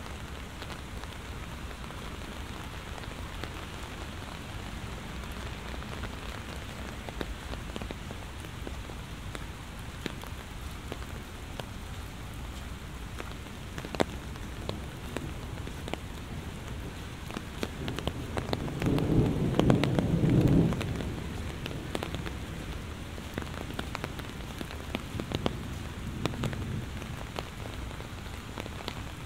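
Heavy rain falling steadily on surfaces, with sharp close drop hits. About two-thirds of the way through, thunder rumbles for a couple of seconds, the loudest sound here, and a fainter rumble follows near the end.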